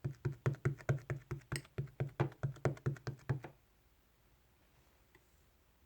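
Rapid, even knocking or tapping, about five strikes a second, each with a dull low thud, stopping abruptly about three and a half seconds in.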